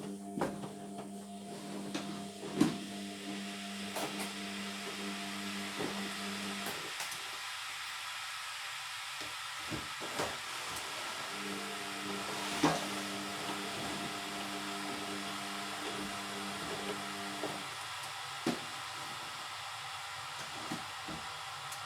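Indesit washing machine tumbling a wash: the drum motor hums steadily, stops for about four to five seconds, runs again, then stops again near the end. Occasional sharp knocks sound over a steady hiss.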